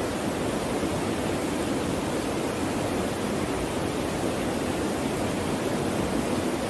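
Clear stream water flowing steadily, a constant even rush.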